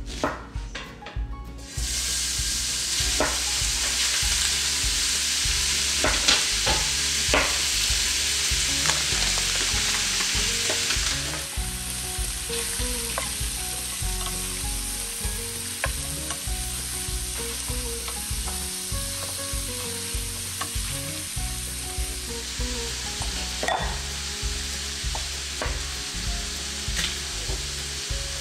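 Diced bacon and sliced Lyoner sausage sizzling as they fry in a stainless steel skillet, stirred now and then with short knocks and scrapes of a utensil. The sizzle starts about two seconds in.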